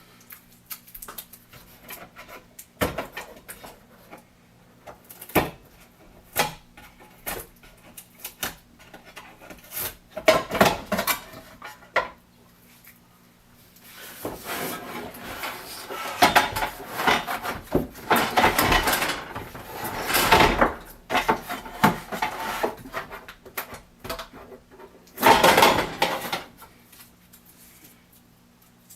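Scattered knocks and clicks with several longer stretches of rustling and scraping, from a new coffee maker and its packaging being handled and unwrapped.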